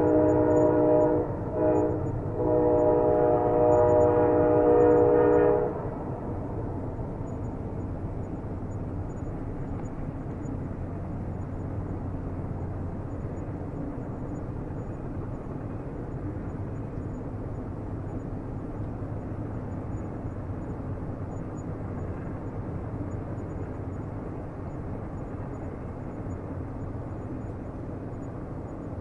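Train horn sounding, broken twice briefly, then cutting off about six seconds in. A steady low rumble of a train on the rails runs underneath and carries on after the horn stops.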